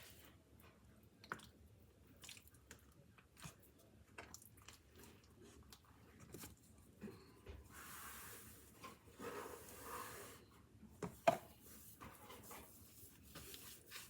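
Faint, sticky squishing and handling sounds as ground mustard seed is sprinkled and pressed onto a mustard-coated brisket, with scattered small clicks, a soft rustling stretch past the middle, and one sharper click about 11 seconds in.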